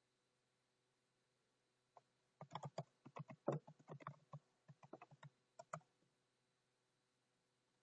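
Laptop keyboard typing: a single keystroke, then a quick run of keystrokes lasting about three and a half seconds, as sign-in details are entered.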